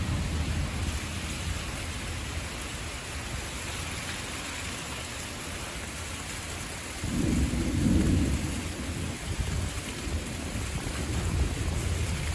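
Steady hiss of rain during a thunderstorm, with a low rumble of thunder breaking in suddenly about seven seconds in and rolling on to the end.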